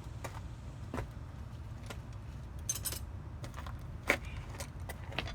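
Metal hand tools clinking and jingling as they are picked through and handled. There is a short jingling rattle about three seconds in and one sharp metallic clack about a second later, over a steady low hum.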